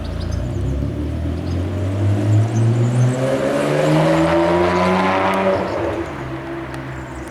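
Car engine accelerating hard, its pitch rising steadily for about four seconds as it pulls away, then fading as it drives off.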